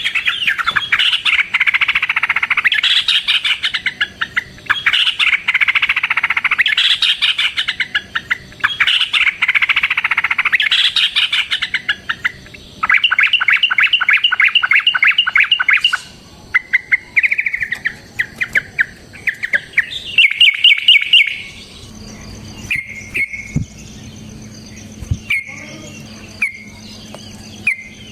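Yellow-vented bulbul song: long, fast, chattering rolled phrases, then an even rapid trill, breaking after about halfway into shorter phrases with gaps between them.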